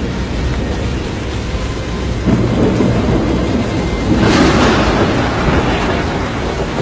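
Film sound of a violent tornado storm: a loud, steady rumbling rush of wind and rain. It swells about two seconds in, then again more strongly about four seconds in with a hissing surge.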